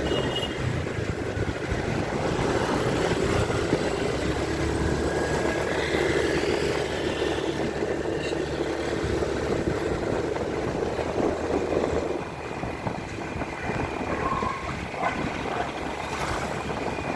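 Motorcycle engine running steadily on the move, with a haze of road noise. The sound eases a little about twelve seconds in.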